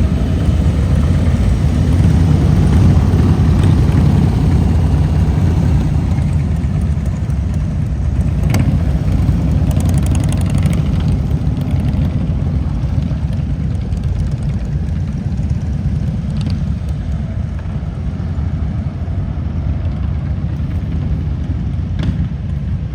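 Motorcycle engines running at low speed in a steady rumble, swelling slightly in the first few seconds and easing off later, with a couple of faint clicks.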